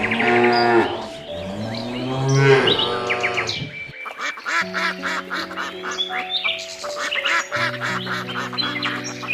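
Two long, drawn-out farm-animal calls over the first three and a half seconds, then background music with held notes and quick repeated high sounds.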